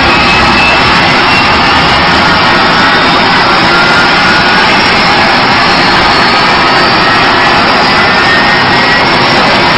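Jet engines of a jet-powered semi truck running with a loud, steady roar, with a faint high whine gliding slowly in pitch.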